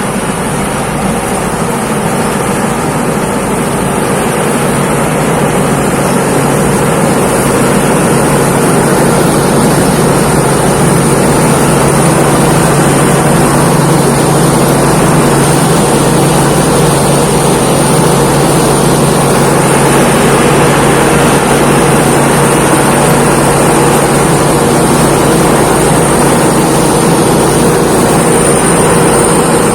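A Thai Seng Yont rice combine harvester running steadily under load as it harvests. The engine drones at a constant pitch with a thin, steady high whine above it, and it grows a little louder over the first several seconds.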